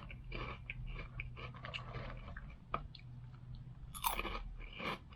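A person chewing crisp wasabi-flavoured shrimp chips: a run of crunchy bites and chews, with a louder crunch about four seconds in.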